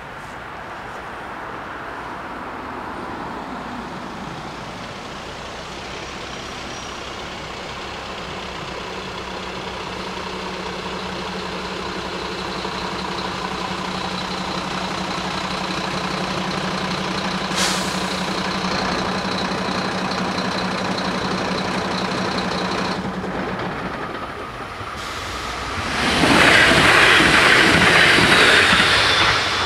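DB Talent 2 electric multiple unit approaching, growing slowly louder with a steady hum that cuts off abruptly about two-thirds of the way through. Near the end it passes over the level crossing with a loud rush of wheels on rail.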